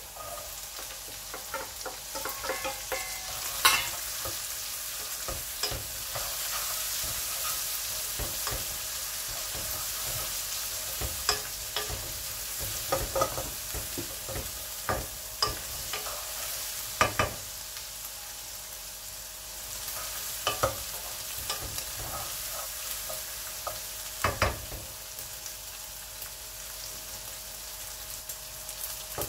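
Dried shrimps frying with a steady sizzle in hot oil in a wok, stirred with a wooden spatula that knocks and scrapes against the pan now and then.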